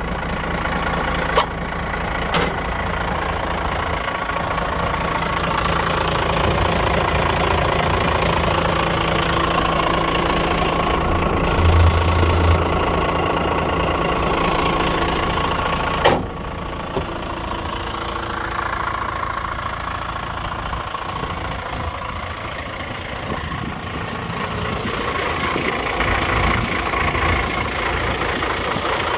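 Renault 110-150 4x4 fire truck's diesel engine idling steadily. A few short knocks come near the start and one sharp knock a little past halfway, after which the sound is slightly quieter.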